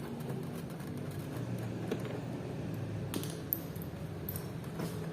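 Small metallic clicks and clinks, a handful spread over a few seconds, as a scooter's body-panel bolts are undone with hand tools, over a steady low hum.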